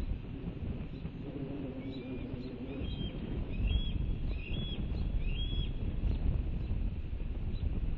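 Wind noise on the microphone, with a bird giving four short high calls about a second apart in the middle, each rising and then levelling off.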